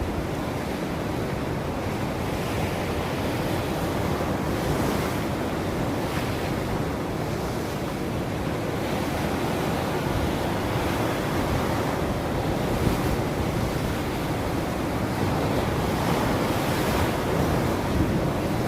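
Ocean waves breaking and washing on a shore, a continuous surf roar with a few louder breakers about five, thirteen and seventeen seconds in.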